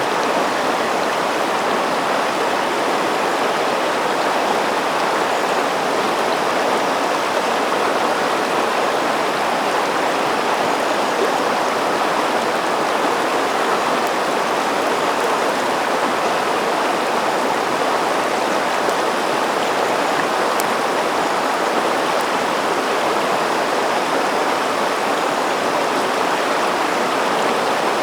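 River water rushing steadily over rocks: an even, unbroken flowing sound.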